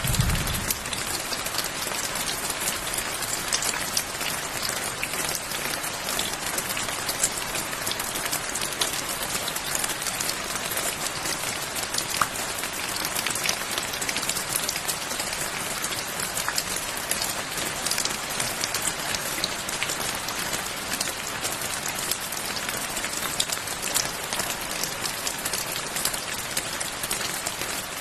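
Steady rain falling, an even hiss flecked with many small drop ticks. The last of a low thunder rumble dies away in the first half second.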